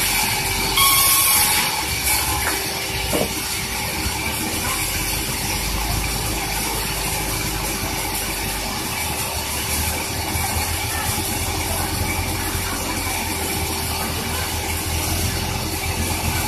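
Sawmill machinery running steadily while sawing a large durian log: a constant mechanical hum under a hiss, with a brief louder hiss about a second in.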